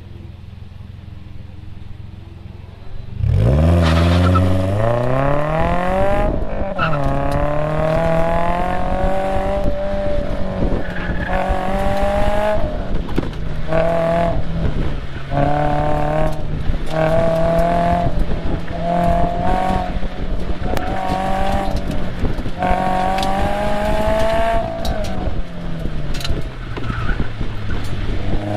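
2022 Subaru BRZ's flat-four engine idling, then launching hard about three seconds in, heard from inside the cabin. Its note climbs steeply and drops sharply about six and a half seconds in, then rises and falls repeatedly with throttle and braking through the autocross course.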